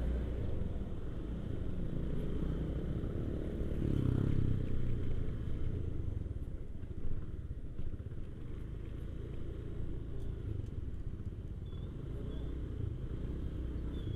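Motorcycle engine running at low speed, a steady low rumble that swells briefly about four seconds in.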